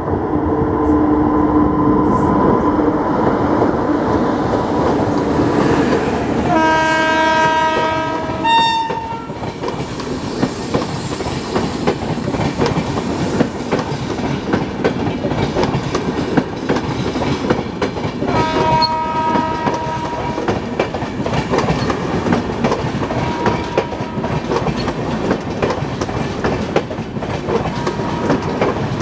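Passing electric express train: a WAP-5 locomotive humming as it comes through, then sounding its horn in a two-second blast about six and a half seconds in, and a shorter blast near twenty seconds in. Its coaches follow, rumbling past with a fast, steady clickety-clack of wheels over the rail joints.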